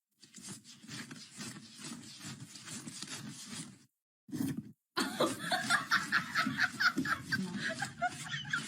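Someone laughing in quick repeated pulses, fainter at first and louder from about five seconds in.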